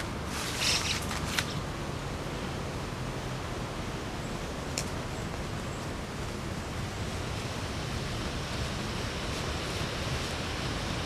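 Steady hiss of falling rain, with a few sharp clicks in the first second or so and one more about five seconds in.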